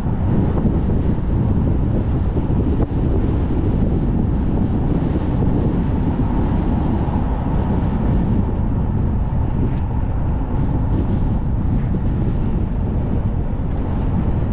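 Strong wind buffeting a moving car, a steady, dense low rumble of rushing air over the car's road noise.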